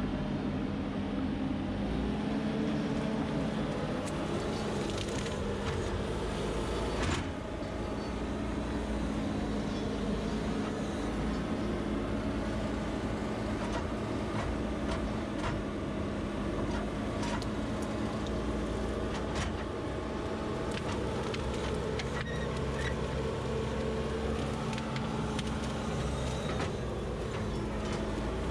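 A heavy machine's engine running steadily, with a constant hum and a low rumble, and scattered knocks and clicks over it.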